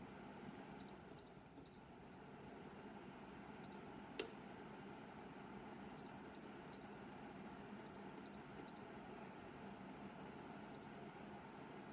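Short high electronic beeps, some single and some in quick runs of three, from a Dreo tower space heater's controls as its settings are stepped, over the heater's steady fan noise. One sharp click about four seconds in.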